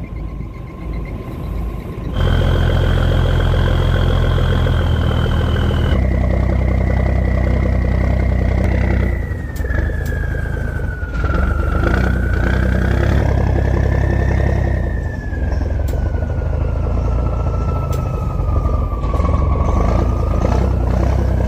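A cargo boat's engine running steadily. It gets louder about two seconds in, and a high whine slowly falls in pitch over it.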